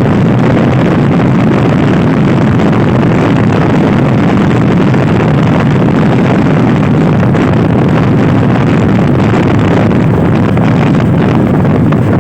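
Loud wind rush buffeting the microphone of a Honda Scoopy i scooter ridden at speed, with the scooter's engine running underneath, steady throughout.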